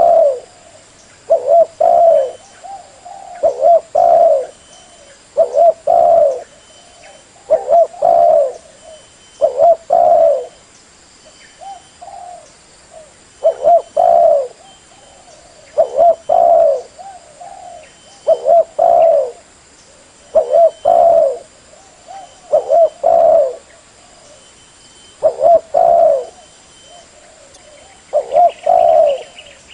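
Spotted dove (terkukur) cooing: a low, hoarse coo phrase repeated over and over, about one every two seconds.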